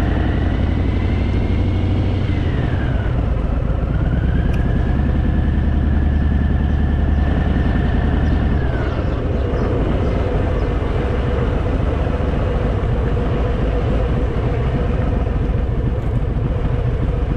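Harley-Davidson motorcycle being ridden, its engine running steadily under continuous road noise. The low rumble eases about halfway through.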